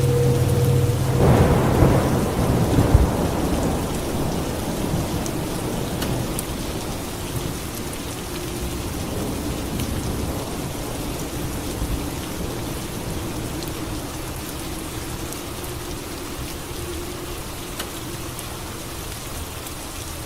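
Steady rain falling, with a thunderclap about a second in that rumbles and fades away over the next several seconds.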